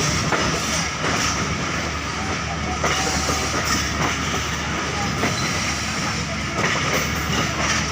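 Passenger train in motion: a steady rumble and rattle of the carriage, with wheels clicking irregularly over the rails.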